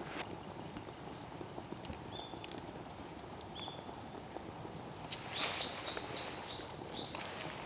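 A small bird calling outdoors: short high whistled notes, two single ones and then a quick run of about six near the end, over scattered soft clicks and faint background hiss.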